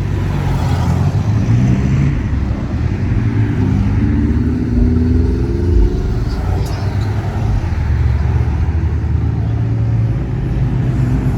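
Classic car engines rumbling past at low speed, with one engine rising in pitch as it accelerates a few seconds in.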